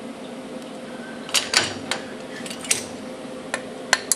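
Scattered sharp metallic clinks and clicks over a steady machine hum, the clicks coming faster near the end.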